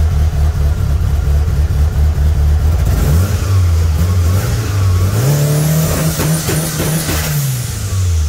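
Car engine running under load, its pitch climbing about five seconds in, holding, then dropping back near the end.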